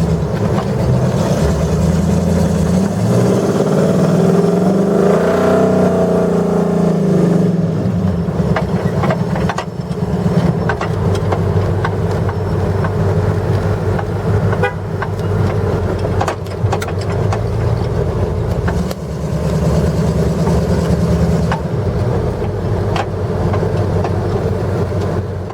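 4x4 truck engine running under load, with steady engine tones and the pitch rising and falling as it revs a few seconds in. Scattered sharp knocks come through along the way.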